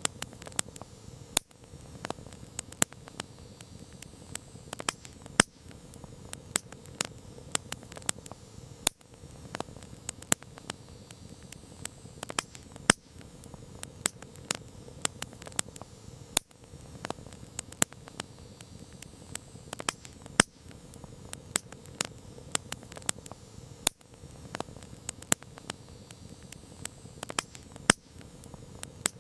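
Campfire crackling: wood burning with frequent irregular sharp pops and snaps over a low steady rush of flames.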